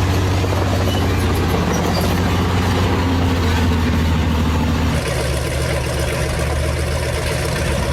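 A heavy engine running steadily, its note changing about five seconds in.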